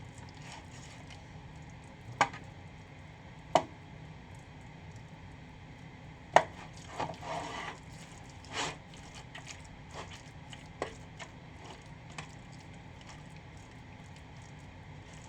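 Scattered sharp knocks and clicks over a steady low hum, the loudest about two, three and a half and six seconds in, with a short rattle just after and fainter ticks later.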